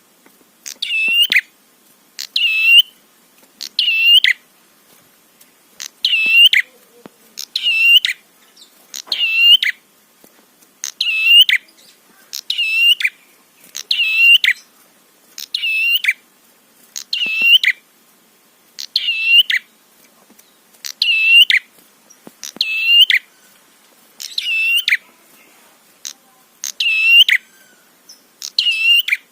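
Prenjak (prinia) calling: one short, sharp, curving note repeated steadily about once every second and a half.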